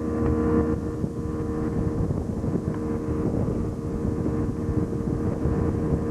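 Boat motor running steadily under way, a constant engine hum with rushing wind and water noise.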